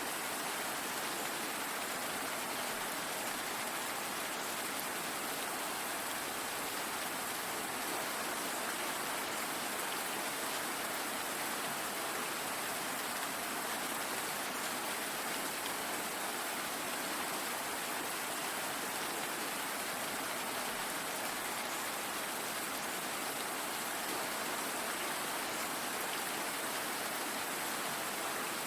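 Steady, even rain falling and pattering on surfaces, with no change in strength.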